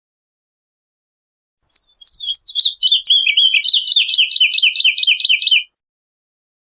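Woodlark singing one phrase of quick repeated notes that start high and slide lower as the phrase goes on, beginning about two seconds in and stopping about a second before the end.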